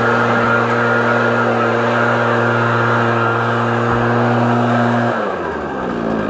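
Backpack leaf blower engine running steadily at full throttle, then throttled back about five seconds in, its pitch falling as it winds down toward idle.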